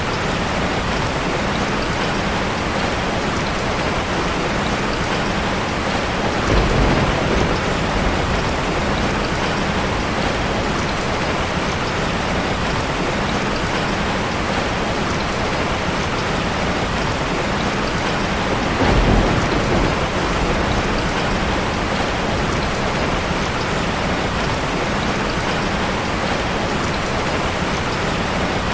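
Heavy rain falling steadily, a dense even hiss of drops. Two brief deeper surges come about six and nineteen seconds in.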